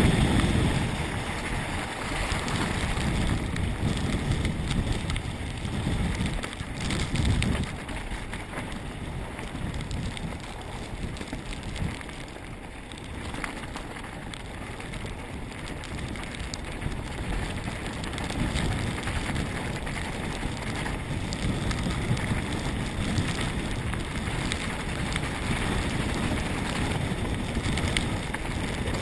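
Wind buffeting the microphone at speed, over the rumble and rattle of a mountain bike riding down a rough trail.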